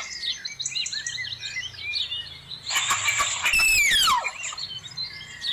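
Birds chirping and calling in quick, overlapping short notes. About three seconds in there is a loud harsh screech, followed by a long whistle that falls steeply in pitch.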